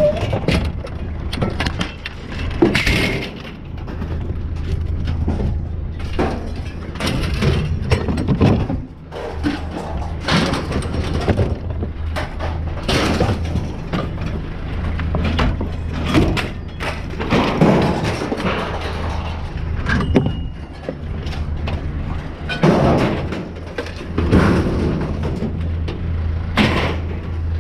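Scrap metal clattering and banging as it is thrown off a pickup and onto a pile, in irregular crashes, over a steady low engine hum.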